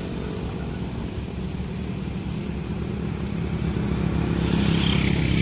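Diesel train engine running with a steady low drone, growing louder as it approaches, then cut off suddenly near the end.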